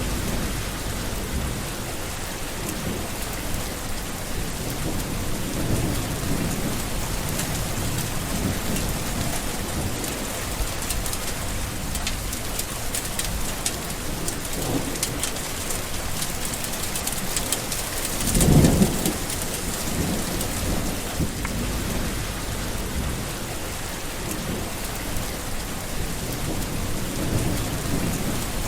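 Steady rain with low rolling thunder rumbling underneath. One louder thunder rumble peaks about two-thirds of the way through.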